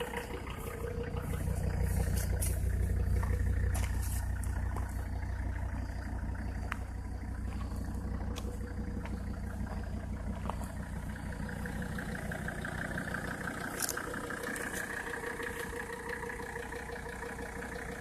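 1985 Mercedes-Benz 300D Turbo's five-cylinder turbodiesel engine idling steadily with an even diesel rumble, which the owner calls smooth, without vibration. A few faint clicks sound now and then.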